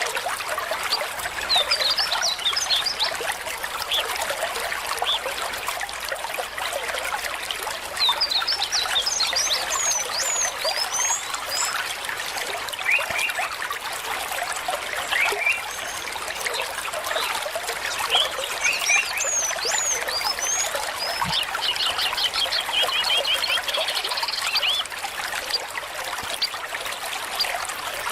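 A small stream trickling and babbling steadily. Birds chirp over it in several short bouts, with a quick rapid trill in the later part.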